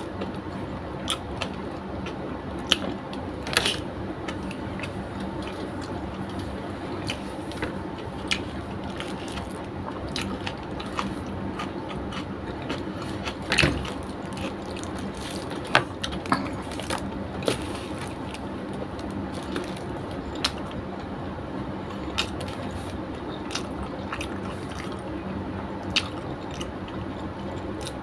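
Close-up eating sounds: chewing and wet mouth clicks, with the squish of fingers working rice and chicken adobo, as irregular sharp clicks over a steady background hum. One click is louder about halfway through.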